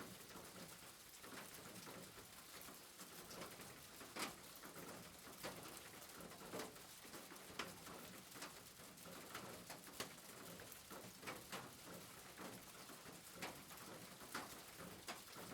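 Faint, steady rain hiss with scattered sharp drops tapping at irregular times.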